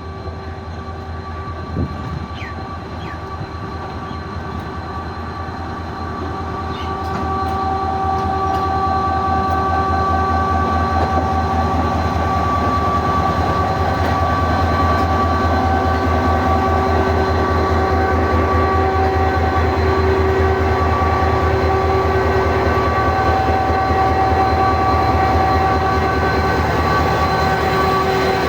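Passenger train pulling out, its diesel locomotive running with a steady whine over a low rumble. It grows louder about seven seconds in, then holds steady as the train gets under way.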